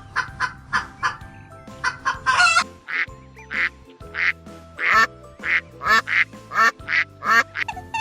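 Ducks quacking repeatedly in short calls, quicker at first and then about two a second, over background music.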